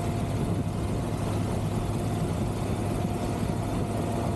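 Triumph Tiger 1200 GT Pro's three-cylinder engine running at a steady cruise, an even drone mixed with wind and road noise.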